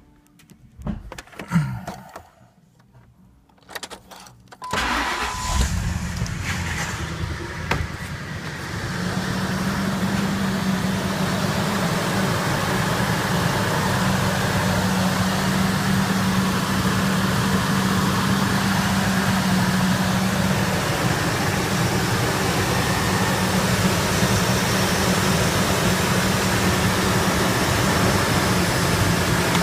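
A 1998 Ford Expedition's 4.6 L Modular V8 starts about five seconds in after a few faint clicks, then settles into a steady idle.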